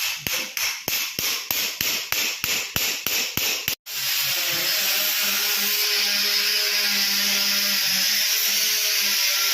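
Orthopaedic surgical instruments: a rapid run of sharp strikes, about four a second, then after a sudden break a steady whirring power tool, which cuts off at the end.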